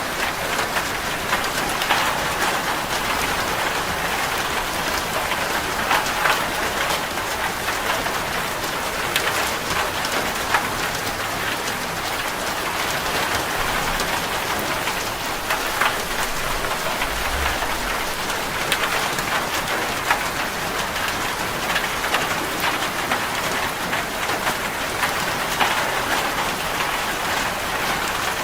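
Steady rain drumming on a corrugated metal roof, a dense hiss with scattered louder drop taps.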